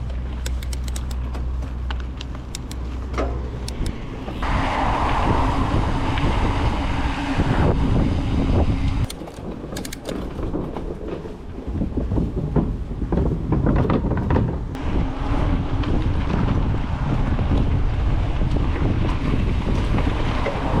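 Wind buffeting the microphone over a low rumble and many sharp rattles and clicks, as from a mountain bike being ridden on a dirt trail. It gets louder about four seconds in.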